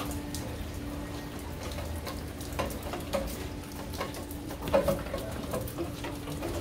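Rain falling and dripping, with scattered drips and a few louder splashes about five seconds in, over a steady faint hum.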